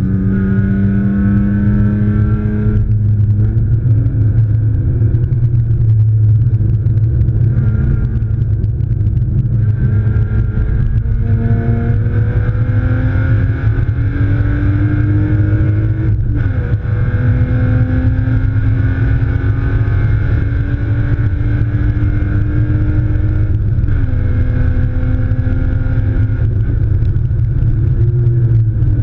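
BMW E36 328i's straight-six engine under hard racing acceleration, heard from inside the cabin over a heavy low road and wind rumble. Its pitch climbs steadily and then drops back several times as it shifts gear or comes off the throttle.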